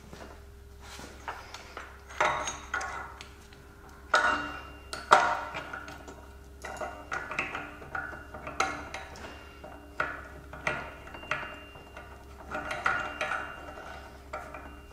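Hand tools working on a car's front suspension ball joint separator: a string of irregular metallic clicks and clanks, some with a short ring, roughly one or two a second.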